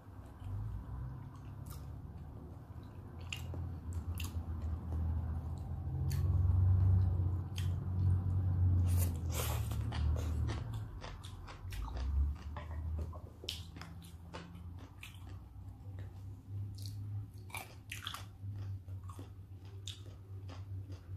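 Close-miked chewing of raw salmon sashimi, with many wet mouth clicks and smacks. The chewing is heaviest about six to ten seconds in.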